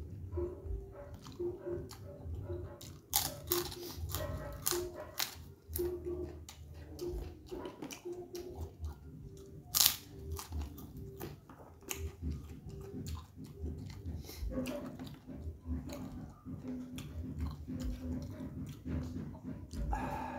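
A man biting and chewing crispy kerupuk crackers and rice close to the microphone, with sharp crunches throughout. The loudest crunch comes about ten seconds in.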